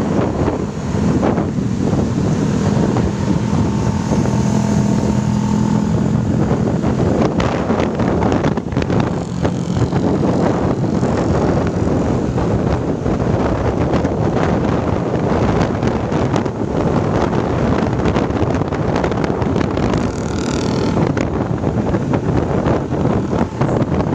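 Sumber Jaya Trans intercity bus engine running hard under road and wind noise, with heavy wind buffeting on the microphone. A steady engine drone is plain in the first few seconds.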